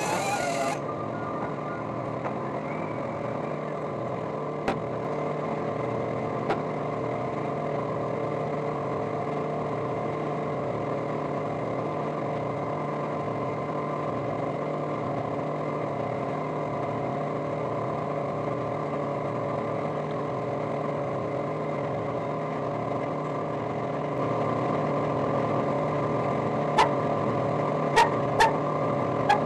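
Air compressor running with a steady, even hum. A rushing noise cuts off about a second in. There are a few sharp clicks, two early and three close together near the end.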